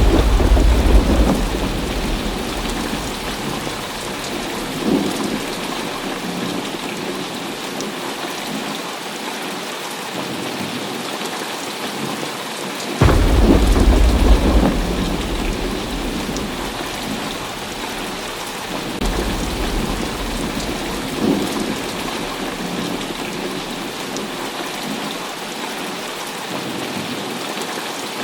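Heavy rain falling steadily through a thunderstorm. A thunder rumble is rolling away at the start, a sudden clap of thunder comes about 13 seconds in and rumbles on for a few seconds, and a softer roll of thunder follows about 19 seconds in.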